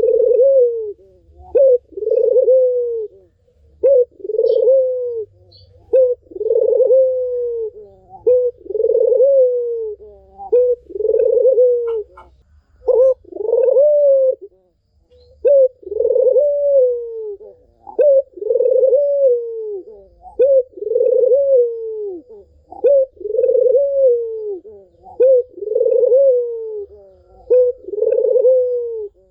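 Barbary dove (puter) cooing over and over at a steady pace, about one coo a second. Each coo is a short note run into a longer, falling note.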